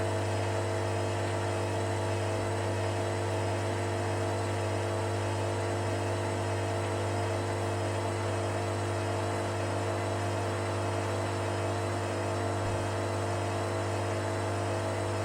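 Hoover Dynamic Next washing machine spinning at a steady low speed, a constant motor hum and whine from the drum, which the owner reckons is doing about 300 to 400 rpm.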